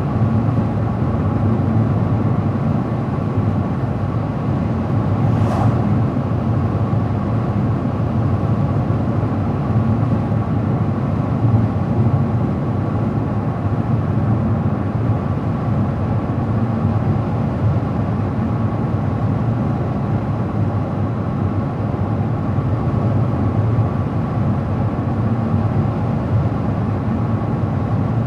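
Car driving at a steady road speed: even tyre and engine noise with a faint steady whine.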